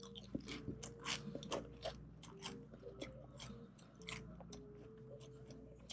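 Close-miked crunchy chewing of crisp fried chicken: many sharp crackles of the fried coating breaking between the teeth, with quiet background music under it.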